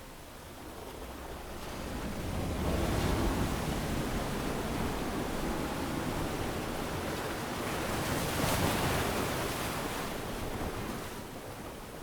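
Ocean surf breaking on a beach: waves swell in about two seconds in, crest again around the middle, then wash back and fade near the end.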